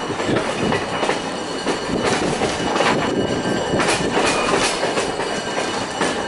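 Passenger train heard from aboard while moving: a steady rumble and rattle of the coach, with the wheels clicking over rail joints at uneven intervals of about a second.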